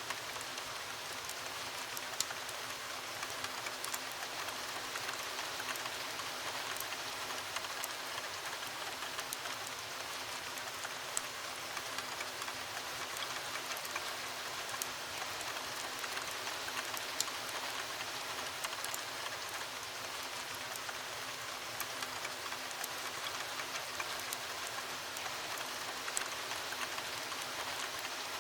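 Steady heavy rain hissing against a window, with sharp crackles and pops from a wood fire scattered irregularly through it.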